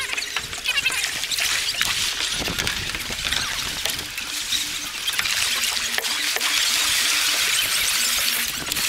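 River water splashing and trickling, a steady hiss with small crackly splashes.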